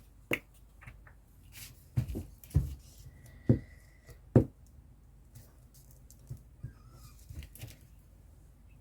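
Scattered sharp taps and clicks of craft items being picked up and set down on a table, with a brief high steady tone about three seconds in.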